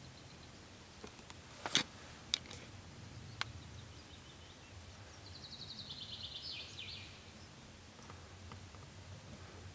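Quiet forest ambience with three sharp cracks or snaps in the first few seconds, then a small bird singing a fast trill of repeated high notes, slightly falling, for about a second and a half around the middle.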